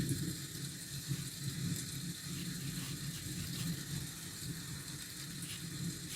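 Steady hiss of rain with a low rumble of traffic underneath, and a few faint ticks.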